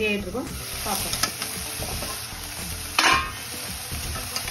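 Chopped broad beans sizzling in an aluminium kadai with the lid off, the sprinkled water cooked away. A single loud metal clank comes about three seconds in.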